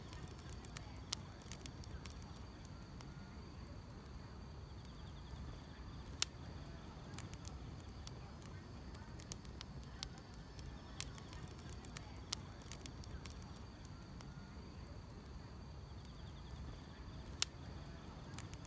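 Firewood burning: irregular sharp crackles and pops over a low rumble, with faint steady chirring of grass insects behind.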